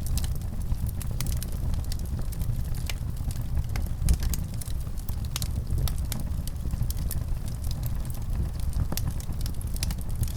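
Fireplace fire crackling: irregular sharp pops and snaps over a steady low rumble, with one louder pop about four seconds in.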